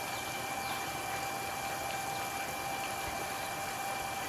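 Small electric water pump running steadily as it drains a plastic swimming pool: an even hiss with a steady high whine.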